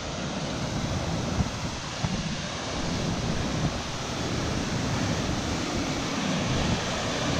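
Steady rushing of a big river rapid, with wind buffeting the microphone in uneven low gusts.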